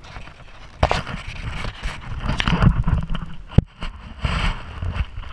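Bike riding over rough ground: low wind rumble on the microphone, rattling and scraping, with sharp knocks about a second in and again past the middle.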